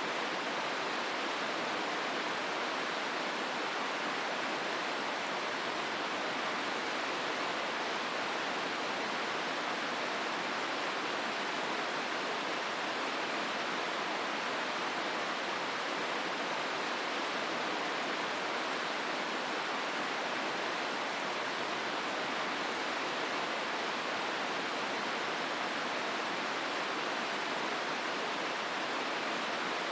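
Hozu River running through a rocky gorge: a steady, even rush of flowing water with no breaks or single events.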